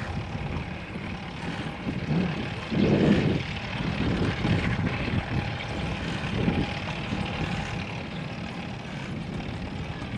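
Wind buffeting a GoPro microphone on a moving bicycle: a steady low rumble with a louder surge about three seconds in.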